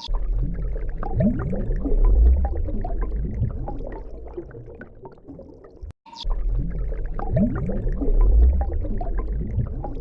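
A looped gurgling, watery soundtrack with short rising glides. It cuts out briefly about six seconds in and starts over.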